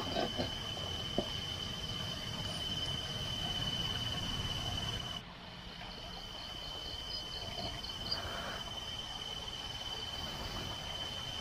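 Night insects calling: one steady, high-pitched cricket-like trill that breaks off briefly about five seconds in and resumes, with a second insect's rapid chirping pulses joining a couple of seconds later. A low rumble sits under the first half.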